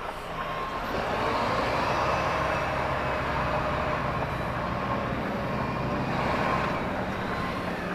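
Lorry's diesel engine running steadily under way, with road noise, heard from inside the cab.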